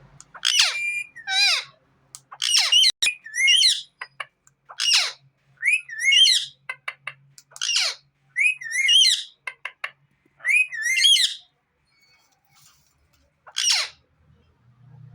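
Pet parrot calling: a series of about a dozen loud, shrill calls and whistles, some with a wavering pitch, then a short pause and one last call near the end.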